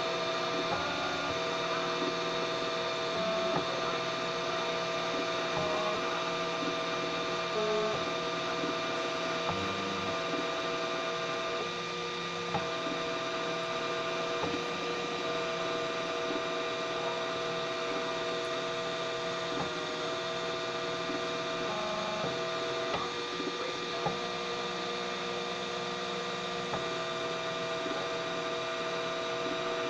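3D printer's stepper motors whining steadily, several tones at once, the pitch jumping every second or two as the print head changes speed and direction.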